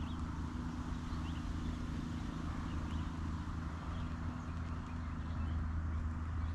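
Steady rain falling over a steady low hum, with a few faint short chirps scattered through.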